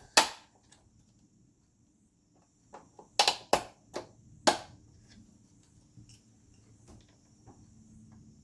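Sharp clicks and knocks of a projector's parts being handled during disassembly. One loud knock comes right at the start, then a quick run of about five more around three to four and a half seconds in.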